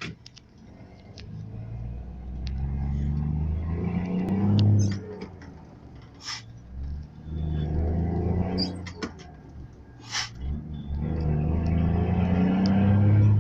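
Power-tuned Scania 124 coach's straight-six diesel revved three times in a row, climbing in pitch and falling back to a low idle between revs. Short sharp hisses come between the revs.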